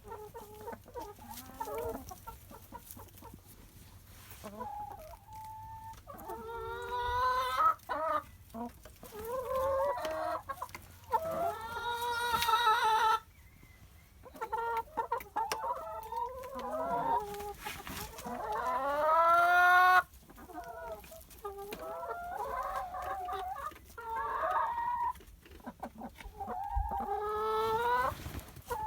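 Chickens clucking and calling in an irregular run of calls, with a few longer drawn-out calls that stop abruptly about twelve and twenty seconds in.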